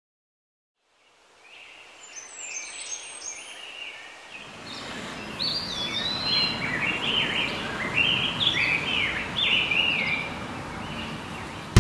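Small birds chirping and twittering, many quick sweeping calls over a steady outdoor background noise, fading in from silence about a second in; the background noise swells a few seconds later.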